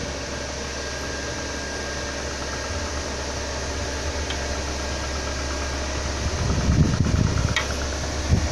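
An engine running steadily at low revs, with a louder low rumble about six to seven seconds in and a short low thump near the end.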